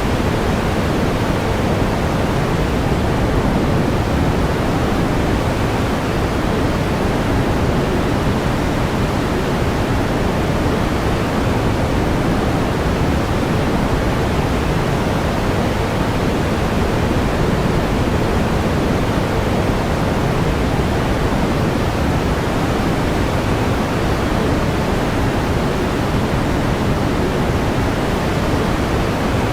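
Steady pink noise: an even, unchanging hiss weighted toward the low end, with no rhythm or events.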